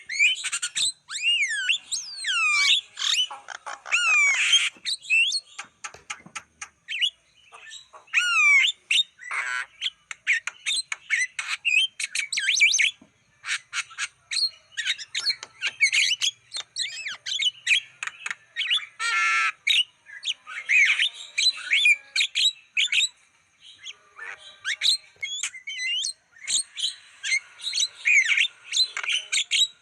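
Javan myna (jalak kebo) singing: a busy, unbroken run of harsh squawks, clicks and rising and falling whistled notes, with only a couple of short pauses. It is a tutor and lure song for training or calling in other Javan mynas.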